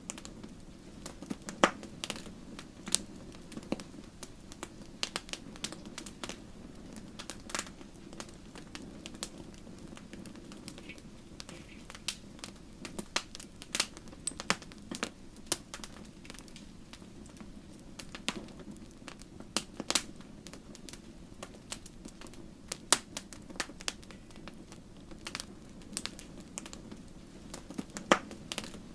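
Wood fire burning in a fireplace: logs crackling with irregular sharp pops, a few standing out louder, over a steady low rushing background.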